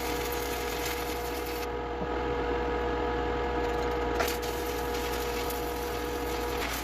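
Shielded metal arc (stick) welding with a steady crackling hiss, played back sped up, over a steady electrical hum.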